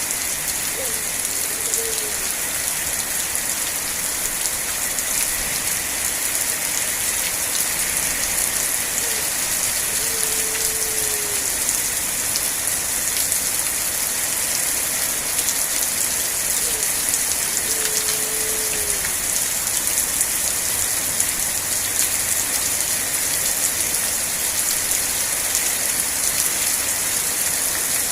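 Steady rain falling, an even hiss strongest in the high range. A faint short falling tone sounds three times, about eight seconds apart.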